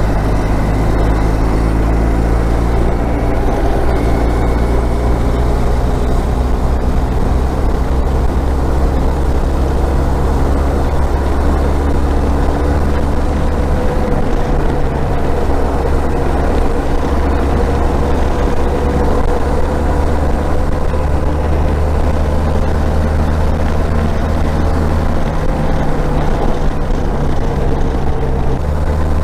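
Motorcycle engine running at a steady cruise, with road and wind noise.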